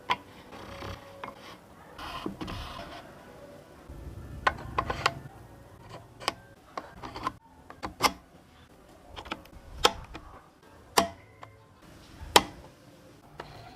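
Irregular sharp clicks and knocks of parts and tools being handled, with low rustling in between.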